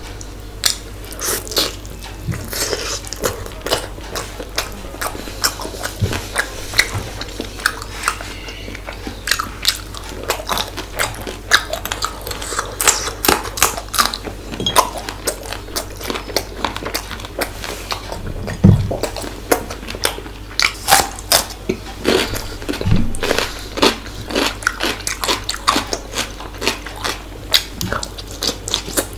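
Close-up mouth sounds of a person eating small river fish masala curry and chicken pulao by hand: chewing, lip smacks and crunches, heard as many short, irregular clicks.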